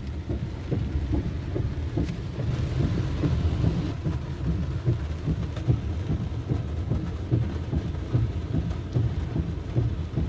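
Heavy rain pattering on a car's roof and windshield, heard from inside the moving car over a steady low road rumble.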